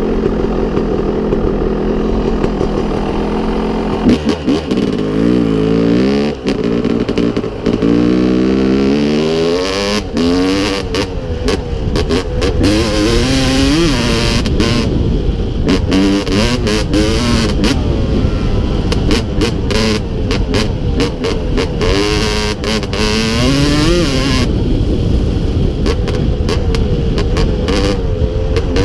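Yamaha WR250Z two-stroke enduro motorcycle engine, running steadily at first and then revving up and down again and again, with many sharp clicks and a hiss over it.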